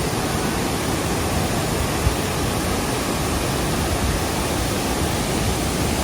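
Waterfall: falling water rushing as a steady, even hiss.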